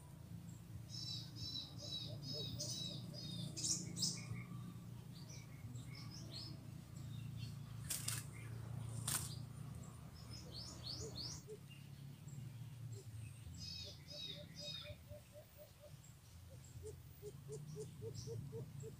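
Small forest birds calling: quick repeated series of high chirps and short down-slurred notes, coming in bouts. Two sharp clicks land about 8 and 9 seconds in, and a lower run of evenly spaced notes repeats near the end, over a steady low rumble.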